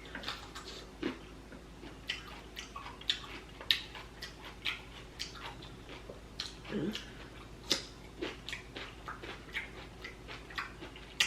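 Close-up mouth sounds of a person eating seafood: chewing with irregular wet smacks and clicks of the lips, several each second.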